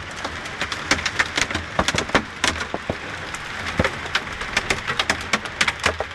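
Hailstones pelting down in heavy rain: many sharp, irregular clicks and knocks over a steady hiss of rain.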